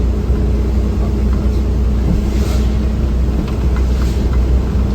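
Steady low road and engine rumble of a vehicle driving on wet roads, heard from inside the cab. Two brief swishes come about two and a half and four seconds in.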